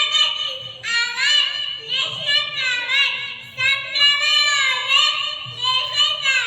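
A child singing solo in a high voice: long sung phrases with held notes that slide in pitch, no instruments heard.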